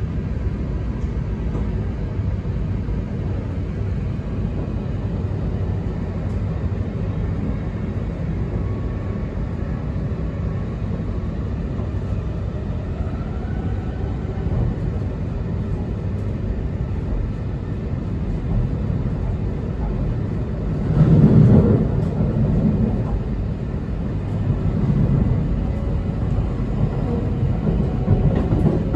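Inside an E2 series 1000 Shinkansen car while running: a steady low rumble of the wheels and the running train. It grows louder for a second or two about 21 seconds in, swells mildly again a few seconds later, and rises once more at the very end.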